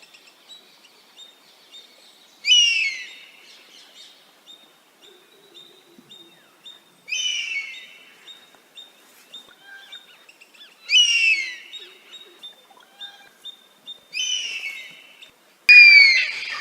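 Oriental honey-buzzard calling: five high whistled calls, each falling in pitch and lasting about a second, spaced a few seconds apart, the first and last the loudest. A faint, thin high note repeats steadily in the background.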